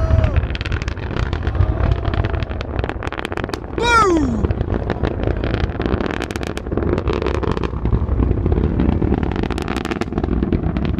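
Rocket launch heard from a distance: a steady low rumble with dense, irregular crackling. A person shouts "Boom!" about four seconds in.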